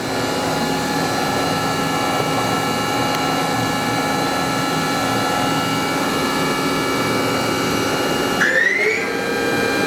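Spindle of a Mori Seiki MV653-50 vertical machining center running steadily at 2,500 RPM with an even, many-toned whine. About eight seconds in, the whine rises quickly as the spindle speeds up toward 3,500 RPM, then holds at the higher pitch.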